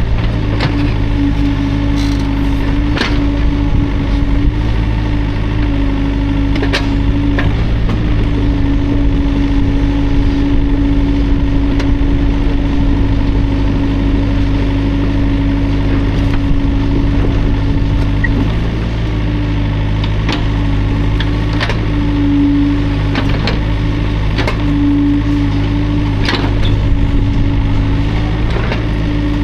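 Hydraulic excavator's diesel engine running steadily, with a few sharp knocks now and then.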